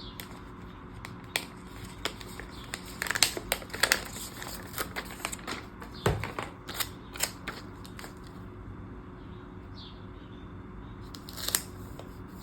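Planner pages and sticker sheets being handled by hand: scattered light rustles, taps and small clicks, busiest in the first half with a last click near the end.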